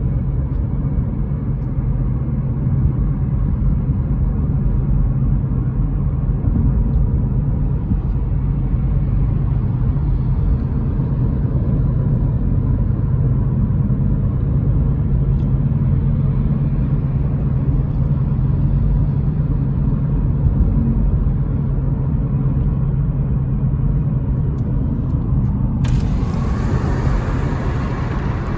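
Car driving: a steady low rumble of road and engine noise. A brighter hiss joins suddenly near the end.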